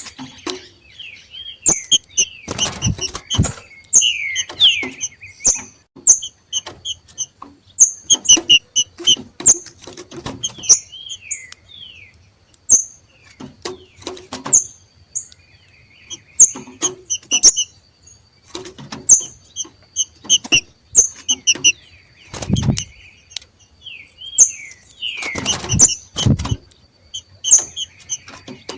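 Green-winged saltators (trinca-ferro) giving the short, rapid chirps and slurred notes that breeders call 'macheado', a call of birds coming into breeding condition, repeated over and over. Sharp clicks and a few low thumps break in between the calls, with a faint steady high whine beneath.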